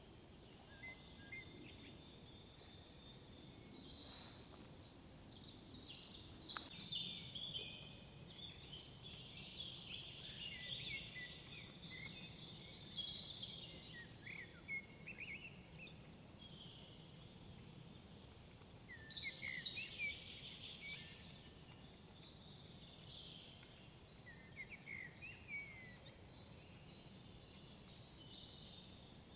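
Several woodland songbirds singing, with overlapping chirps and warbled phrases and a high thin trill that comes back several times, over a faint steady background hiss.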